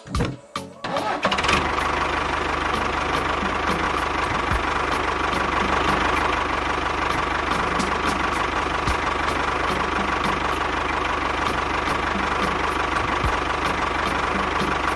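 A small engine starts running about a second in and keeps going steadily, with a regular ticking.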